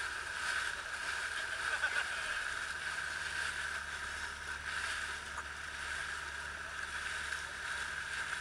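Small ferry boat under way, its engine running steadily with a constant hum and rushing noise.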